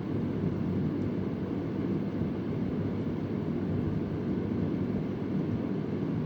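Vintage Convair oscillating fan running: a steady, low rushing of air from the blades and motor.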